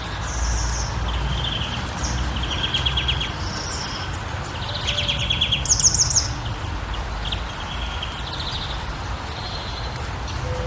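Songbirds calling in short, rapid trills and chirps at several pitches, one after another, over a steady low rumble.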